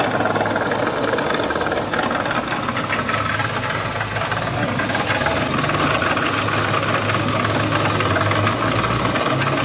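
Renault Clio 1.0 8-valve running steadily with its drivetrain making a noise that the mechanic traces to the wheel-side CV joint. The joint ran dry for a long time and has pitting in the ball race.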